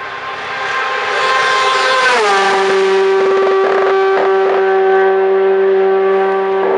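Hillclimb race car's engine at high revs, getting louder as it approaches. Its high, steady note drops in pitch once about two seconds in, then holds, with a few short crackles around the middle.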